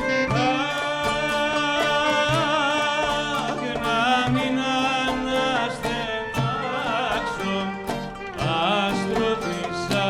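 Byzantine chant performed live: a solo voice sings an ornamented, wavering melody over plucked string accompaniment.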